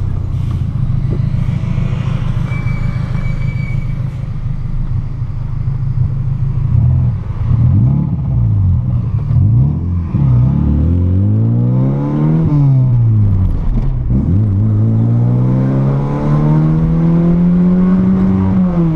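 Volkswagen Golf Mk3 engine through an exhaust with the intermediate muffler and catalytic converter removed and a sport rear muffler, heard from inside the car. It holds a steady note for several seconds, then revs up and down through gear changes, ending in a long climb in revs that drops off suddenly near the end.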